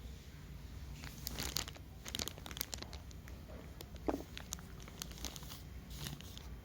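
Crinkling and crackling from a cat handling the catnip sticks. Irregular small clicks, with the sharpest one about four seconds in.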